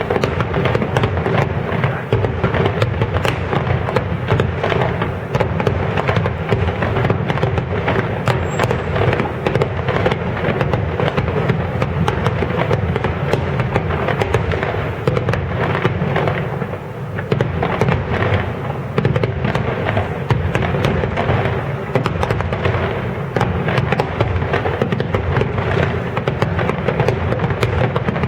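Large fireworks display: a dense, unbroken barrage of bursts and crackling shells, easing briefly about seventeen seconds in before building again.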